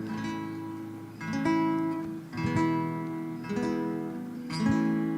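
Background music: an acoustic guitar strumming chords about once a second, each chord left to ring out.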